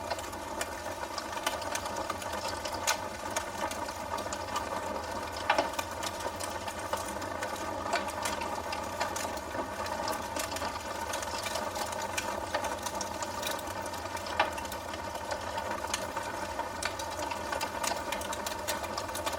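Wood fire burning in a fireplace, crackling: a steady hiss with frequent small, irregular pops and a couple of sharper, louder snaps.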